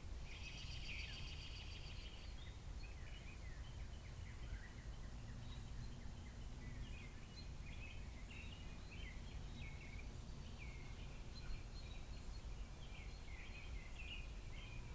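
Faint small birds chirping, starting with a rapid trill in the first two seconds and then short scattered chirps, over a steady low outdoor rumble.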